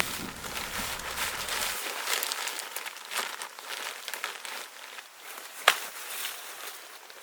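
Low rumble of rain and thunder that cuts off abruptly about two seconds in, followed by irregular crinkling and crunching with one sharp snap in the second half.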